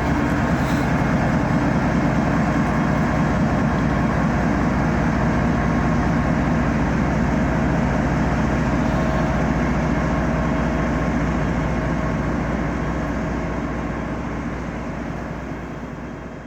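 A train rolling past, a steady rumble of wheels and cars that fades away near the end.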